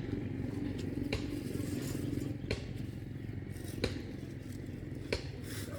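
A motorcycle engine idling steadily, with a handful of short sharp knocks and clatters over it.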